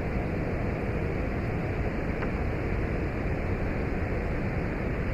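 Steady low rushing background noise outdoors, unchanging throughout, with no distinct events.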